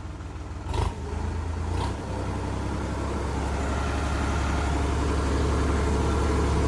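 Sonalika DI 50 RX tractor's diesel engine running with a steady low rumble. It has two short knocks in the first two seconds, then grows gradually louder.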